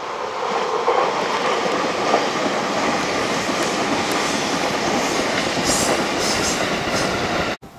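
Red limited-express electric train passing at speed: a steady rush of wheel and rail noise that builds over the first second, holds, then cuts off suddenly near the end.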